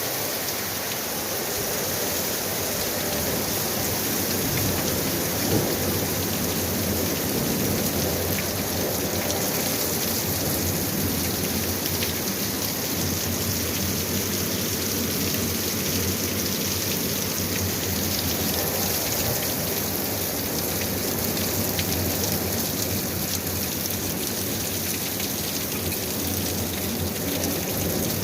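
Very heavy rain pouring steadily, with thunder rumbling low in the background.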